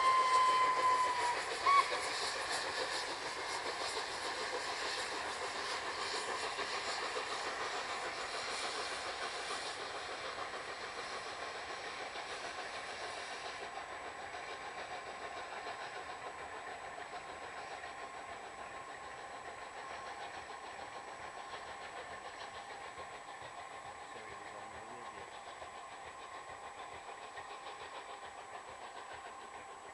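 Peppercorn A1 class three-cylinder steam locomotive Tornado working a train uphill. Its whistle ends about a second in, followed by a short toot, then the locomotive and train fade steadily into the distance.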